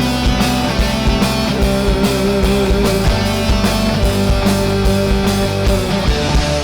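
Live rock band playing an instrumental passage: distorted electric guitars holding sustained chords over bass and a steady, driving drum beat, with no singing.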